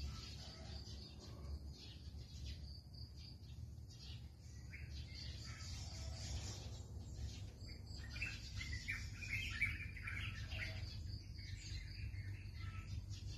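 Birds chirping, with the calls busiest a little past the middle, over a steady low rumble.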